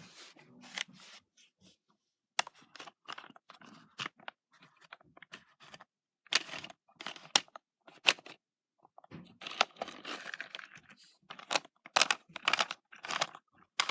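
Hands handling a plastic Hot Wheels car wash playset and toy cars: irregular clicks, scrapes and rustling, with a denser stretch of rustling about nine to eleven seconds in.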